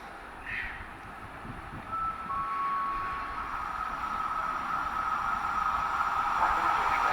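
A train approaching through the station, its noise growing steadily louder, with a thin steady high-pitched tone setting in about two seconds in.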